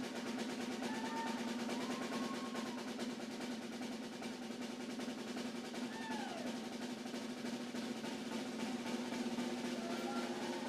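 Snare drum played in a fast, continuous roll, the strokes packed closely and evenly, with a steady ringing drum tone underneath.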